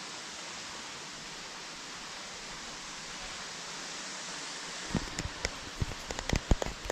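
Steady, even rushing noise of falling water. From about five seconds in, it is joined by a quick run of sharp knocks and clicks.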